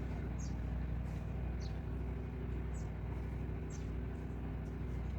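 Mini truck's engine idling steadily, with short high downward chirps about once a second from a small bird.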